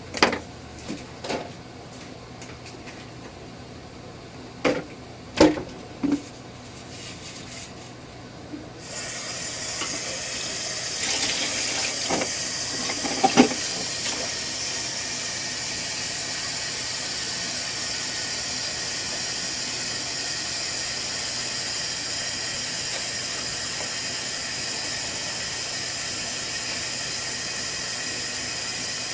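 A few separate knocks and clatters, then about nine seconds in water starts to run with a steady hiss that keeps going; two or three more knocks come soon after it starts.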